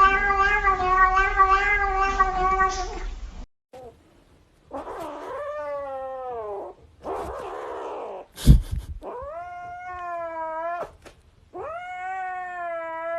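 Domestic cats yowling and meowing: a long, wavering yowl that cuts off, then three separate drawn-out meows, the first falling in pitch. A sharp knock comes about eight and a half seconds in.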